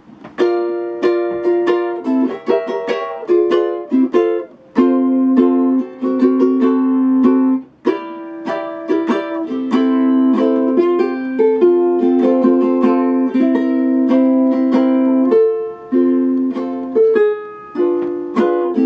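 Acoustic plucked string instrument played as an instrumental, mixing picked melody notes with held chords, without singing.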